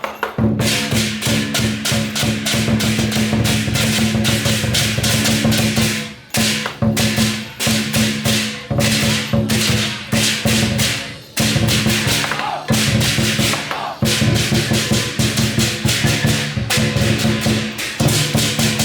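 Lion dance percussion ensemble playing: a drum beaten in a fast, driving rhythm with cymbals clashing on almost every stroke over a steady ringing tone, breaking off briefly about six and eleven seconds in.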